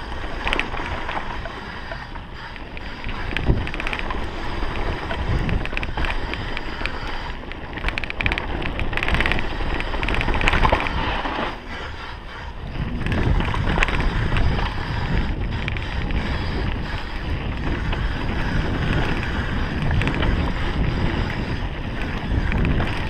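Mountain bike riding down a rough bike-park trail: wind buffets the camera microphone over the rattle and knocks of the bike and its tyres on dirt and rocks. A brief lull comes about halfway, then a heavier rumble.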